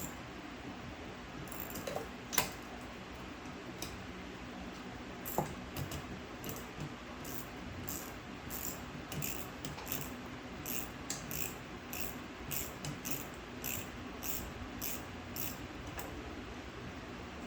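Hand tools at work on a truck's carburetor: two sharp metal knocks, then a long run of quick clicks, two or three a second, from a socket ratchet being worked in short strokes to loosen fasteners.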